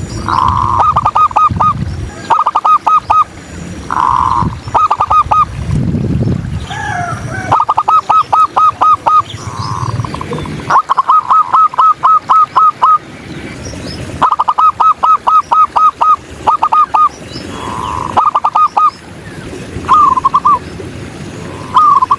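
Zebra doves (perkutut) cooing: repeated phrases of rapid staccato notes, several opening with a longer drawn-out 'kung' note, coming every second or two. A different, gliding call is heard briefly about six seconds in.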